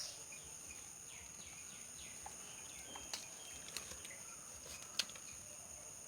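Outdoor ambience: a steady high insect drone, a few short falling bird chirps, and three sharp clicks in the second half.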